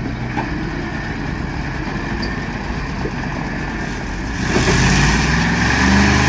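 A timber truck's engine running, growing louder and higher in pitch about four and a half seconds in as it is pushed harder.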